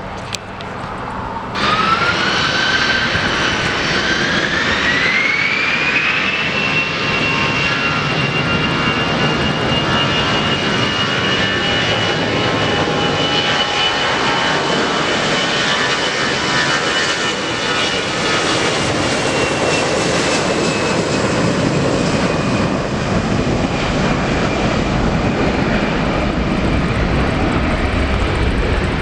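Jet aircraft engines spooling up: a loud whine rises in pitch over about four seconds, then holds steady at high power over a dense rush of engine noise.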